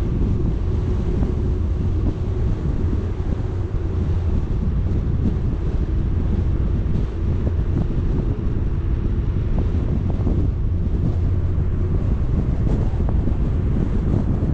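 Wind buffeting the camera microphone over a steady low rumble from a moving vehicle.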